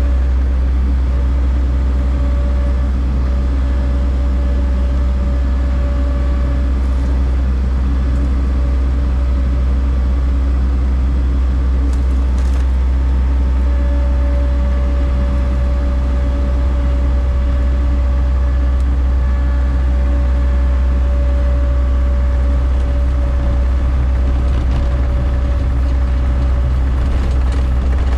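Gehl RT65 compact track loader's engine running steadily with a deep, even rumble, with a faint steady whine above it that fades out for a while early on and returns.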